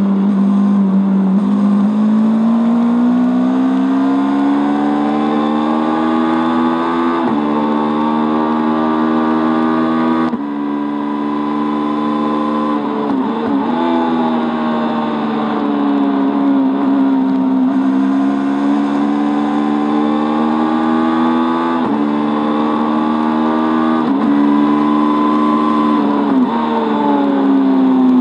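Honda CB500 race bike's parallel-twin engine under hard acceleration on track, revs climbing and dropping sharply at each upshift, several times. About a third of the way in the throttle snaps shut and the revs fall and blip briefly as the bike slows for a corner, then climb through the gears again.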